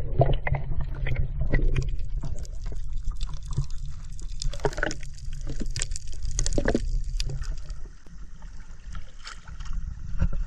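Sea water splashing and gurgling around a kayak as it is paddled, with irregular small splashes over a low rumble that eases about eight seconds in.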